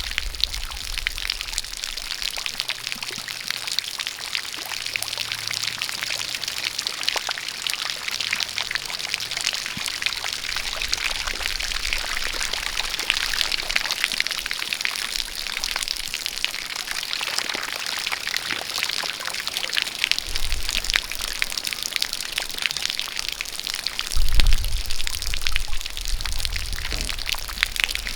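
Rain falling together with a steady jet of pouring water, with countless small drop impacts. A low rumble comes and goes, loudest for a few seconds near the end.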